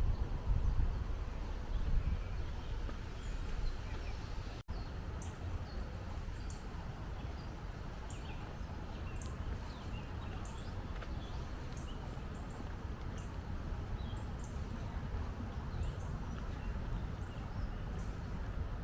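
Small birds chirping, a string of short, high calls repeating every second or so, over a steady low rumble of outdoor background noise. Heavier thumps of noise come in the first couple of seconds.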